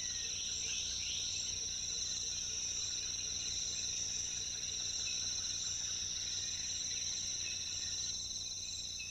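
Rainforest insects calling in a steady, unbroken high-pitched chorus, with a faint low hum underneath.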